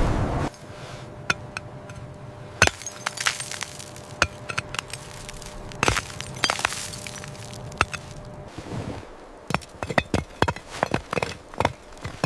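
Ice cracking and clinking: scattered sharp, irregular cracks, some ringing briefly, coming thicker near the end. A loud steady rush cuts off just after the start.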